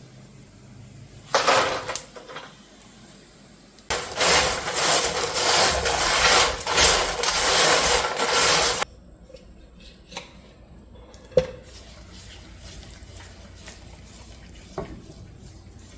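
Kitchen dishes and utensils clattering and knocking. There is a short loud clatter early, then about five seconds of continuous loud clattering and scraping, then a few single sharp clinks and knocks.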